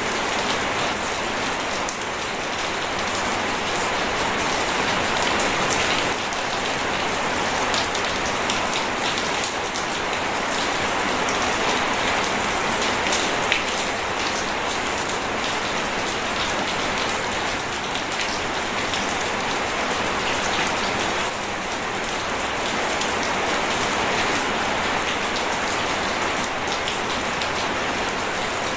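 Steady heavy rain falling, a dense patter of individual drops over an even hiss that keeps the same level throughout.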